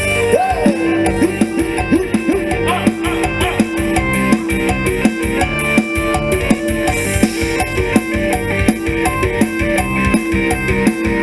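Mor lam sing band playing an instrumental passage: a plucked electric lead with bending notes over a fast, steady drum-kit beat.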